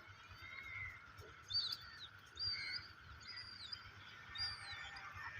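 Small birds chirping: short, high, sliding chirps repeated about once a second, over a faint low background rumble.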